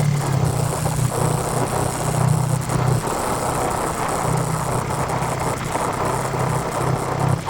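Yamaha Vixion single-cylinder engine, bored up to 177 cc on stock valves, running steadily through a gutted stock muffler.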